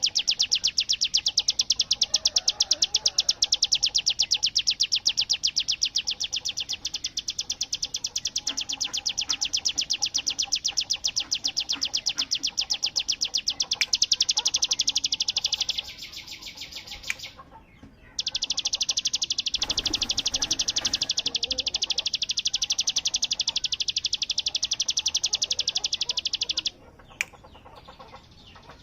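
A prinia (ciblek) singing its 'ngebren' song: a long, rapid, even rattle of sharp high notes like machine-gun fire. It breaks off for about a second partway through, then starts again and stops near the end.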